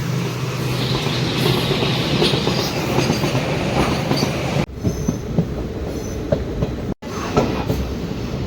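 DEMU passenger train running along the track, a steady rumble with wheels clattering over the rails and a low hum. The sound changes abruptly about halfway in and drops out for an instant near the end.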